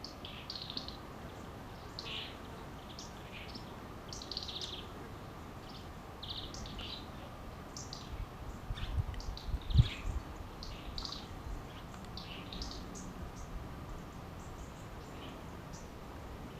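Small birds chirping: many short, high chirps scattered throughout, with no low cooing from the collared doves. Around the middle comes a cluster of low thumps, the loudest a sharp bump about ten seconds in.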